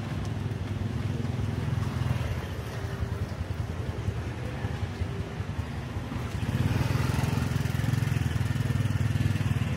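Street noise dominated by a motor vehicle engine running, most likely a motorbike, growing louder about six and a half seconds in.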